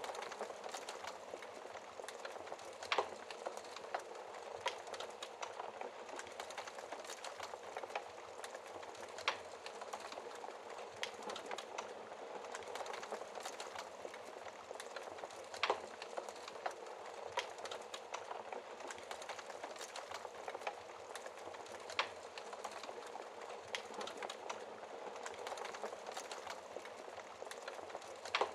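Wood fire crackling steadily in a fireplace, with a constant soft hiss of small crackles and an occasional louder sharp pop every few seconds.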